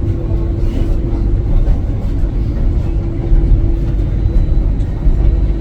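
Ivolga electric commuter train running, a steady low rumble with a constant hum over it.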